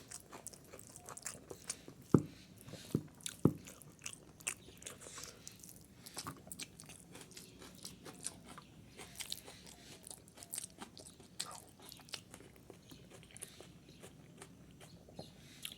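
A person chewing and biting crunchy food: a steady run of crisp crunches and small clicks, with three louder knocks between about two and three and a half seconds in.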